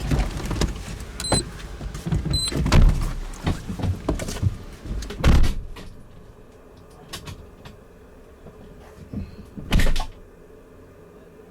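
Vehicle cab noises as the crew get out: clunks and rustling with two short beeps, then the cab goes much quieter and a door shuts with a loud knock near the end.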